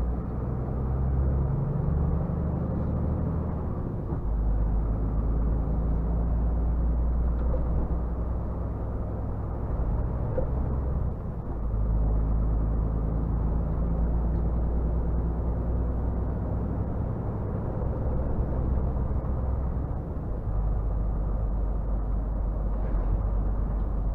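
Scania R450 truck's 13-litre straight-six diesel running while driving, a steady low drone. Its note shifts a few times, with a short dip in loudness about eleven seconds in.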